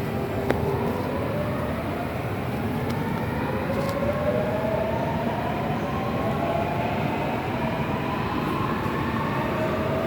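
Subway train accelerating: its motors whine in several rising tones, one after another, over a steady running noise.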